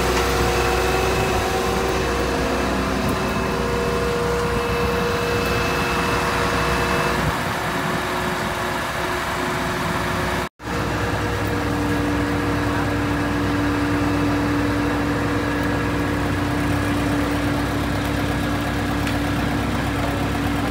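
A HOWO heavy truck's diesel engine running steadily, with a few steady whining tones over it. The sound breaks off abruptly for a split second about halfway, then resumes with a different whine.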